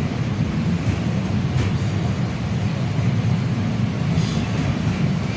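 Passenger train running on the rails, heard from aboard: a steady low rumble, with two faint clicks about one and a half and four seconds in.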